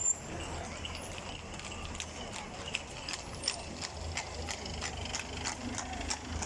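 Horses' hooves clip-clopping on pavement as mounted riders pass at a walk. The hoof strikes grow more frequent from about halfway through.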